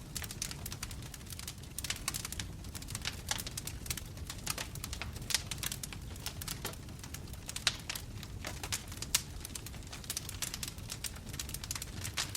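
Wood fire in a fireplace crackling: burning logs give off irregular sharp pops and snaps, several a second, over a steady low rumble of the flames.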